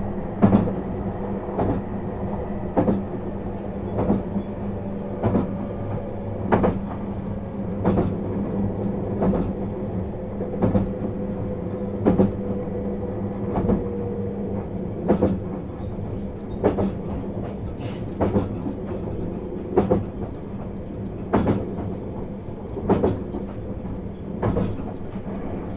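Interior running sound of a JR East 651 series electric train at steady speed. The wheels clack over rail joints about every second and a half, often as a quick double click, over a steady hum.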